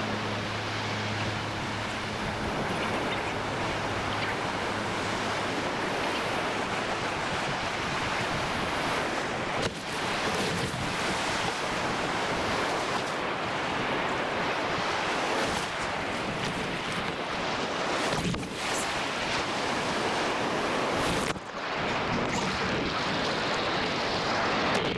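Ocean surf breaking and washing ashore, a steady rushing noise, with wind buffeting the microphone. The sound drops out briefly a few times.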